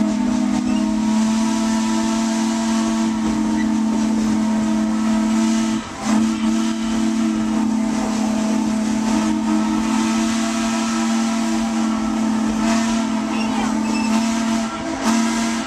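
Steam whistle of a Baldwin 2-8-2 narrow-gauge steam locomotive blown in long, steady blasts, two low notes sounding together as a chime, with one brief break about six seconds in. A hiss of steam runs under it.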